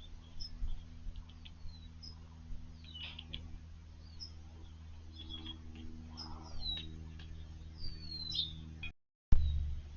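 Small birds chirping: a string of short, high chirps, several sliding down in pitch, over a steady low hum. After a brief dropout near the end, a sudden loud bump.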